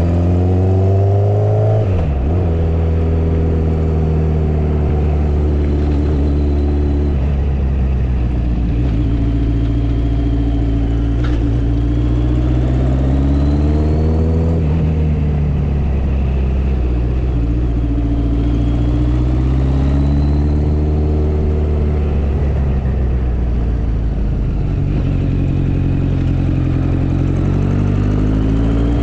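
Motorcycle engine heard while riding, its pitch rising and falling as the throttle opens and closes. The pitch drops sharply about two seconds in, as at a gear change.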